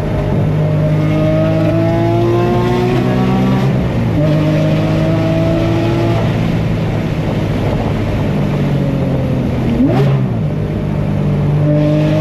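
Porsche 997 GT3 RS's naturally aspirated flat-six engine pulling up through the revs in two long rising sweeps, with a break about four seconds in like a gear change. It runs rougher after that, with a sharp snap near ten seconds in.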